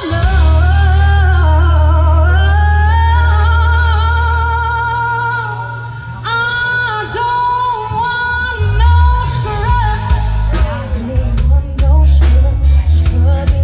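Live band music with singing: long held vocal notes with vibrato over a steady bass, with drums coming in more strongly about two-thirds of the way through.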